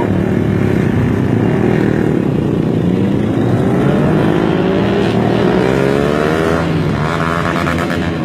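Sport motorcycle exhausts running loud. One engine revs up, its pitch rising over a few seconds in the middle, before the sound changes about six and a half seconds in.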